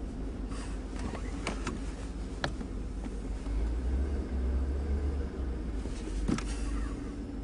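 Low engine and road rumble of a truck being driven, heard from inside the cab, swelling louder for a couple of seconds in the middle, with a few light clicks and knocks.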